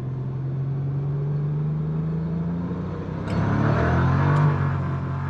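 BMW N54 turbocharged 3.0-litre straight-six running under way, its note rising slowly. About three seconds in it gets louder as the car accelerates and the revs climb, then it eases back off.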